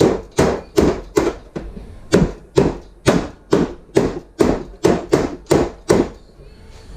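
Hammer tapping the folded-over car door skin flange back down onto the door frame: about fifteen even blows at roughly two or three a second, stopping about six seconds in.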